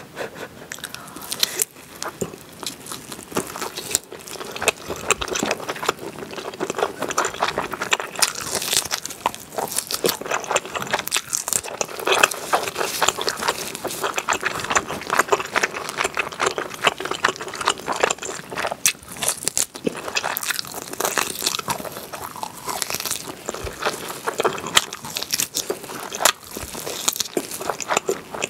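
Close-miked chewing and biting of grilled pork back ribs with melted cheese: many short, wet clicks and crackles of the mouth working on meat.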